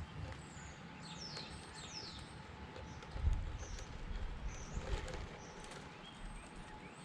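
Wind buffeting the microphone in a low rumble, with a strong gust about three seconds in. Over it, birds chirp in several quick high, falling calls, mostly in the first few seconds.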